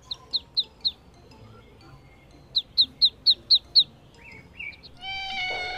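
Ducklings peeping: a quick run of four short, high chirps, then after a pause a faster run of six. A longer, steadier call sets in near the end.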